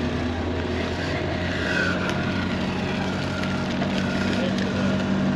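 Car engine running with a steady low hum that steps up slightly in pitch about two seconds in, as the car pulls away.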